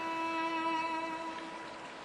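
Background music: a violin holding one long note that fades away.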